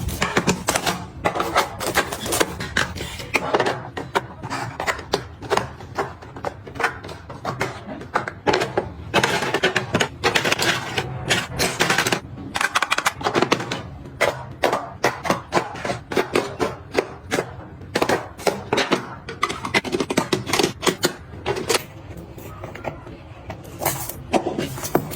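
Dense, irregular clicking, tapping and clattering of small hard objects being handled, picked up and set down one after another, with some scraping between the knocks.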